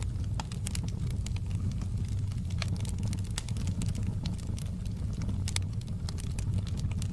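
Wood fire burning in a fireplace: a steady low rumble with scattered sharp crackles and pops from the burning logs at irregular intervals.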